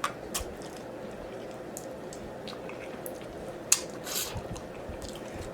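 Close-up wet chewing of braised oxtail: soft squishy mouth sounds with a few short sharp clicks, the loudest about three and a half seconds in.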